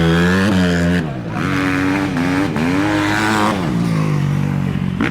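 Motocross dirt bike engines revving hard as they race, the pitch climbing, holding and dropping several times as they accelerate and change gear. More than one bike is heard at once.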